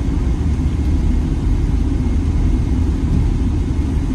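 Steady low rumble inside the cabin of a Boeing 777-300ER on the ground just after landing, the airliner's engines and rolling gear heard through the fuselage.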